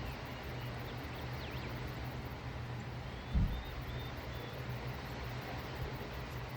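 A steady low hum, with a few faint, short, high bird chirps and one dull thump a little past halfway.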